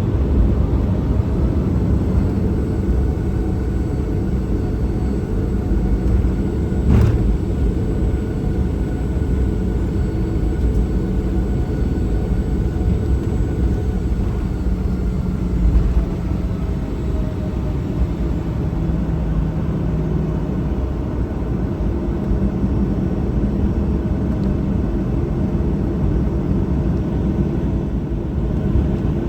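Cabin noise inside a Boeing 737-800 on the ground before takeoff: the steady low rumble of its CFM56-7B engines at low thrust with a faint whine above it. A sharp knock about seven seconds in and a low thud near the middle.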